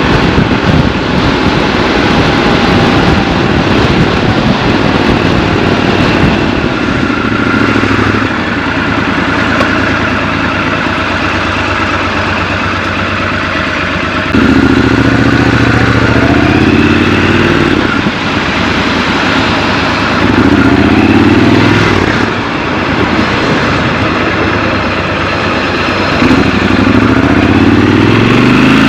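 Triumph Scrambler 1200 XC's parallel-twin engine running under way, with wind rushing over the microphone at first. The engine settles into a low, steady note, then opens up in louder accelerations about halfway through, again a little later, and near the end.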